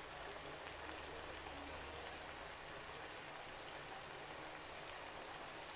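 Oxtail pieces and diced onion sizzling in a frying pan: a steady, even crackling hiss.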